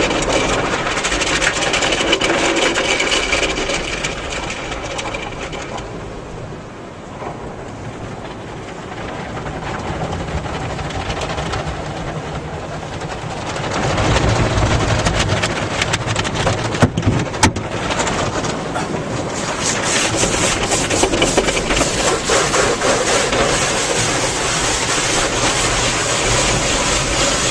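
Automatic car wash heard from inside the car: water spray and spinning cloth brushes working over the body in a steady noisy rush. It eases off for a few seconds in the middle, swells again with two sharp knocks, then fills with a rapid patter of strips or spray hitting the car.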